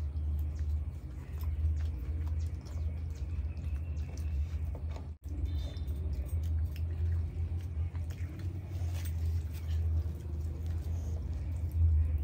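Close-miked chewing and mouth sounds of people eating deep-fried bhature bread with chickpea curry by hand: many soft, short smacks and clicks over a steady low hum. The sound drops out briefly about five seconds in.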